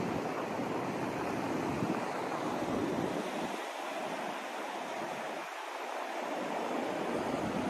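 Steady hiss of a white noise track, an even rushing sound with no tones in it; its deepest part thins out twice around the middle.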